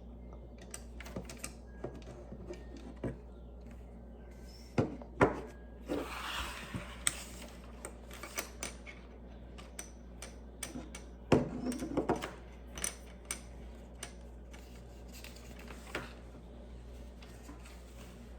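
Plastic Lego pieces clicking and rattling as they are handled and pressed together, in irregular clicks with a few louder knocks about five and eleven seconds in.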